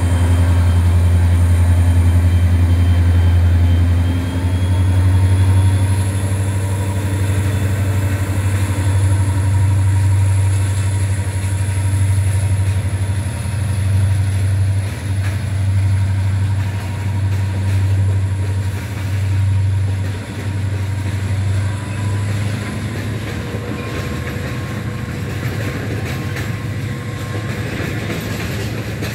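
Container freight train passing close by. The diesel locomotive's engine drone is loud at first, then the container wagons rumble past on the rails.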